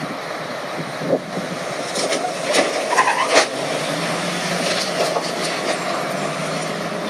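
Motor vehicle and road noise, with a few short, louder knocks between about one and three and a half seconds in.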